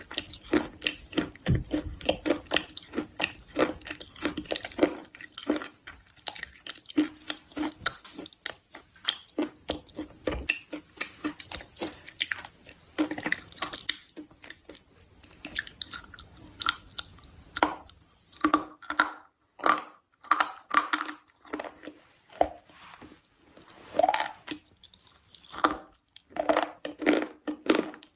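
A person chewing a crunchy white food, with rapid runs of sharp crunches that thin out into separate bites with short pauses in the second half.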